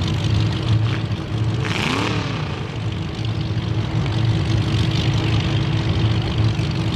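Demolition derby cars' engines idling together in a steady low rumble, with a steady hum over it and a brief hiss about two seconds in.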